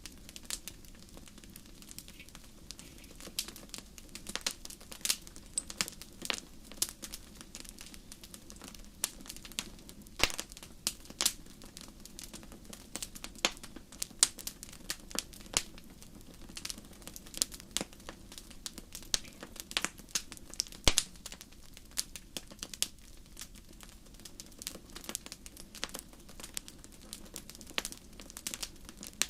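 Wood fire crackling in a fireplace: irregular sharp pops and snaps of burning wood, some much louder than the rest, over a low steady rumble of the flames.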